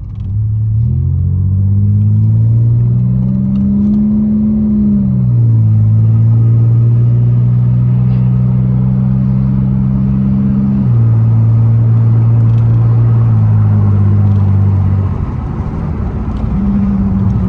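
Muffler-deleted exhaust of a 2002 Pontiac Grand Prix GT's 3.8-litre V6 droning loudly as the car drives. The pitch climbs under acceleration and drops sharply twice as the automatic shifts up. It eases off, then jumps back up near the end on a downshift that jerks the car.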